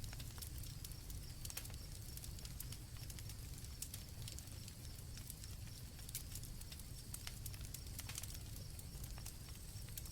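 Campfire crackling, with irregular sharp pops, over a steady low rumble, while crickets chirp steadily at a high pitch in the background.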